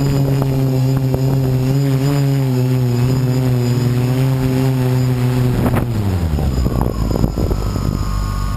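DJI Flame Wheel F450 quadcopter's brushless motors and propellers humming steadily, the pitch wavering a little. Near six seconds in there is a knock, then the pitch drops as the motors wind down.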